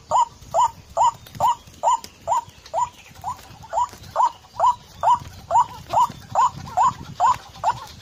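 A bird calling over and over in an even rhythm, about two short rising notes a second.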